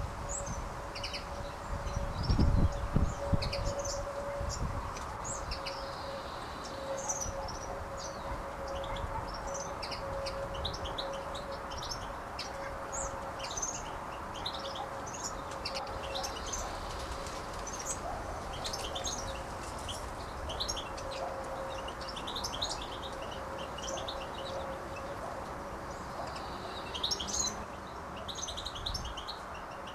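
Small birds chirping and twittering: many short, high chirps in quick succession, with a faint steady hum underneath. A few low thumps about two to three seconds in.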